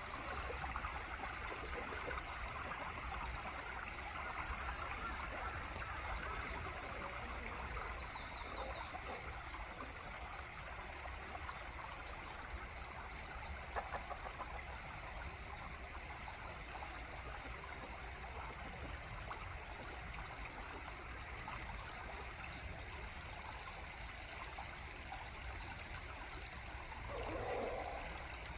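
Steady rush of a small stream running. A bird chirps briefly near the start and again about eight seconds in, and there is a single click about halfway through.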